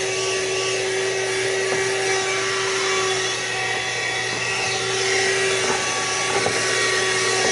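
Car engine idling steadily: a constant drone with a steady whine over it and an even hiss, unchanging throughout.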